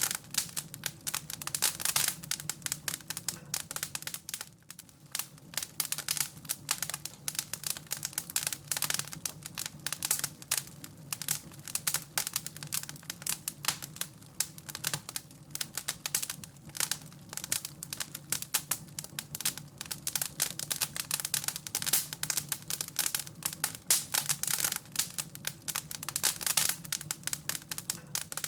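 Wood fire crackling in a fireplace: dense, irregular crackles, with a low steady hum underneath.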